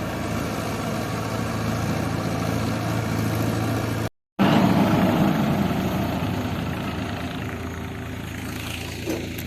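Diesel engine of a heavy farm or construction machine running steadily. The sound cuts out completely for a moment about four seconds in, comes back louder, then slowly fades.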